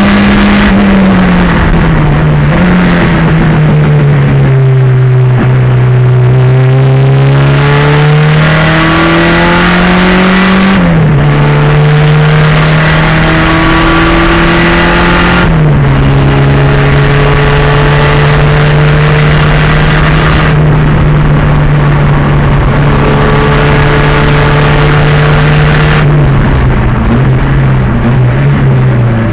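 1987 Pontiac Fiero's 2.0-litre turbo engine running hard on track. Its pitch dips and climbs back, drops sharply twice, about eleven and fifteen seconds in, as it shifts up, holds steady for a long stretch, then falls away unevenly near the end as the car slows.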